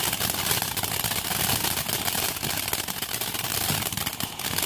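Lit consumer firework crackling and hissing without a break, a dense run of fine pops over a steady spray of noise.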